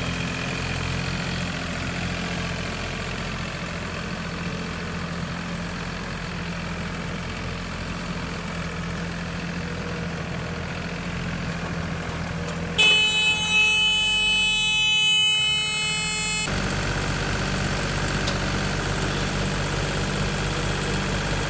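Hay baler machinery and its engine running steadily. About two thirds of the way through, a loud, high, sustained tone lasts about three and a half seconds and then cuts off. A different engine then runs steadily.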